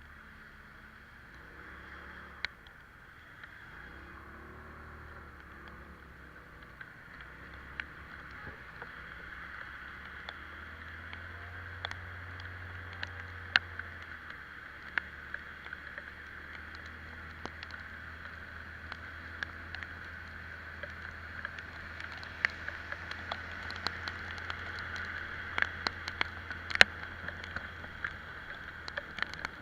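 Italika Vitalia 125 scooter's engine running under way in the rain, with a steady hiss of water and wet road. Sharp ticks are scattered throughout and come more often near the end.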